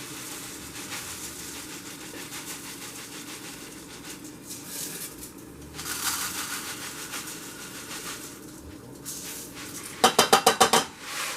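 Kitchen cookware sounds: a pot and utensils being handled over a steady low hiss. Near the end comes a quick run of about eight sharp metal clicks or taps.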